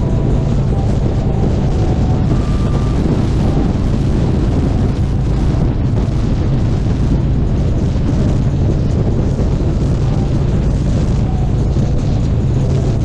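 Harley-Davidson Street Glide Special motorcycle running steadily on the road at speed, with wind rushing over the microphone.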